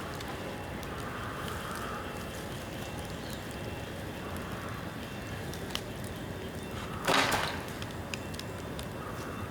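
Bamboo bonfire burning and crackling, with scattered small pops over a steady rush of flame. About seven seconds in comes one louder burst of about half a second, as a piece of bamboo bursts in the fire.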